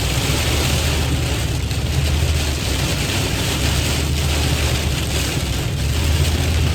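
Heavy rain pouring on a moving car, with a steady low drone of engine and road noise underneath.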